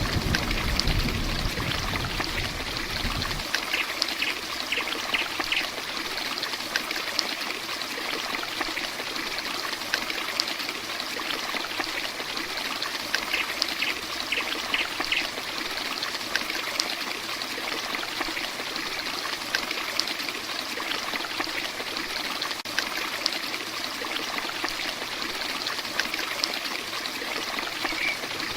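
Heavy rain falling steadily, an even hiss. A low rumble under it cuts off about three seconds in, and two brief runs of high ticks come later.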